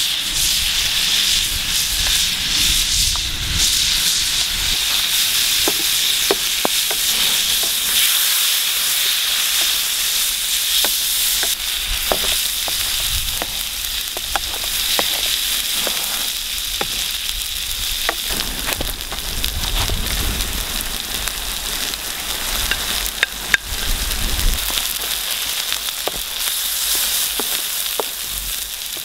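Squid rings and tomato sauce sizzling steadily in a metal baking tray over a wood fire, with a metal spoon scraping and clicking against the tray as they are stirred.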